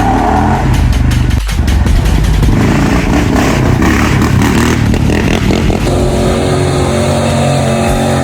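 Car engine revving and accelerating.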